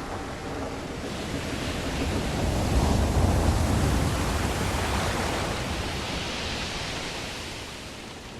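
Sea waves washing against a ship's hull: a single surge that swells to its loudest about three seconds in, then slowly fades.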